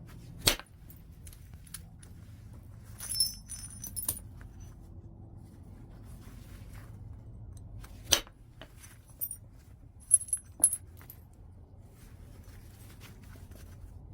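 Knapping strikes on a large piece of white chert: a handful of sharp, separate clicks of stone being struck, the strongest about half a second in and about eight seconds in. Between them come clusters of glassy clinks with a high ringing, as the chert and its flakes knock together.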